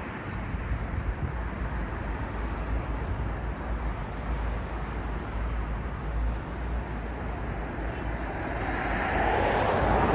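City street traffic noise: a steady low rumble of cars, with one vehicle getting louder as it passes near the end.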